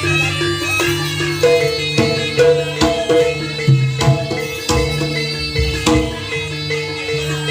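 Live Javanese jaranan (kuda lumping) accompaniment music: hand-drum strokes over sustained, ringing pitched tones from the ensemble, playing continuously.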